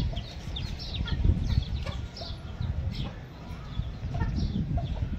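Birds chirping: many short, high, falling calls one after another, over steady low background noise.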